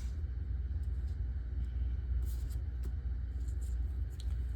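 A steady low background rumble, with a few faint, brief rustles and taps of paper being handled on a work surface.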